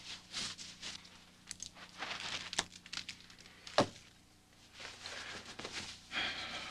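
Rustling and shuffling movement sounds with two sharp knocks a little over a second apart, over a faint steady hum.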